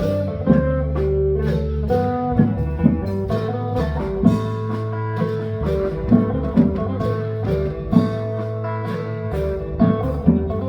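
Upbeat band music: a plucked string instrument playing a melody over a steady bass line, with regular drum beats.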